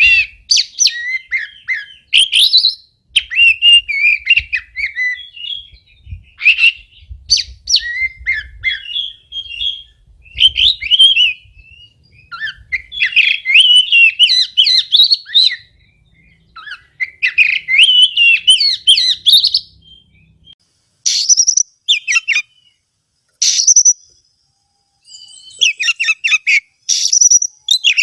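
Oriental magpie-robin singing a long, varied song of quick whistled phrases and chirps, broken by short pauses. About three-quarters of the way in the song thins to a few sharp separate notes, then runs on fully again near the end.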